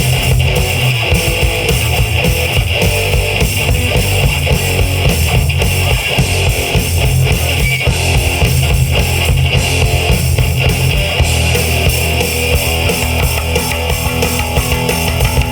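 Live rock band playing an instrumental passage loudly: electric guitars, bass guitar and drum kit, with no singing.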